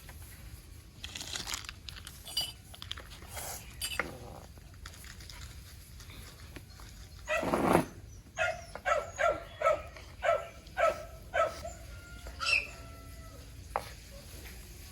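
Dog barking: a run of about eight short, high-pitched yaps in the second half, after a louder noisy burst.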